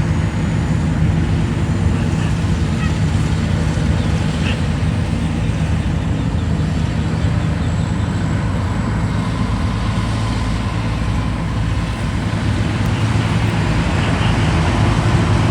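An engine running steadily and loudly throughout, its low pitch shifting slightly about ten seconds in.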